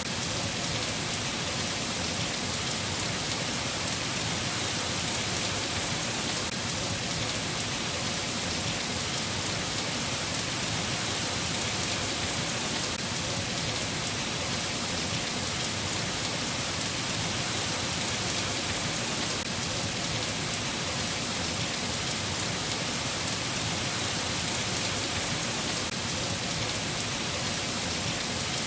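Steady rain falling, an even hiss with no thunder or single events standing out.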